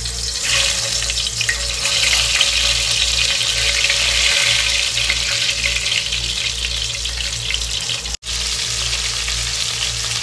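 Stuffed bitter gourds sizzling in hot oil in a frying pan as they are laid in to fry: a loud, steady sizzle. It drops out for an instant about eight seconds in.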